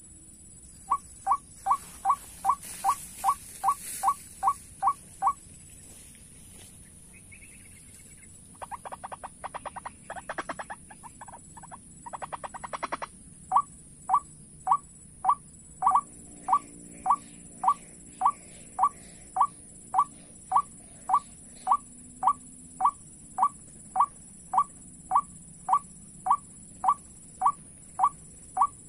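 White-breasted waterhen call played as a lure: a short note repeated two to three times a second, broken after a pause by a fast chattering stretch, then resuming at an even pace. A steady high hiss runs underneath.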